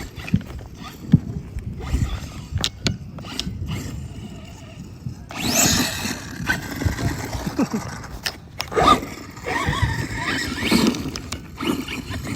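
Electric RC car with a brushless motor driving in bursts. The motor whine rises and falls with the throttle, in two louder passes, among clicks and clatter from the tyres and chassis on the ground.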